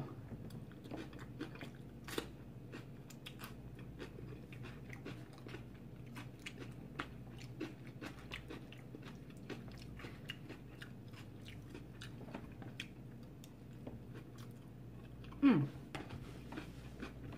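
Close-up mouth sounds of a person chewing vegetable nacho topping: many small wet clicks and light crunches, with a brief louder sound near the end.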